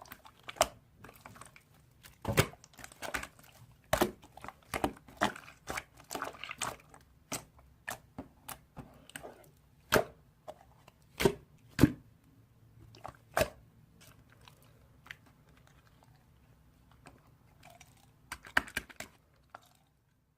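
Irregular, close-up crunches and clicks, a few a second with gaps between, over a low hum; they stop abruptly near the end.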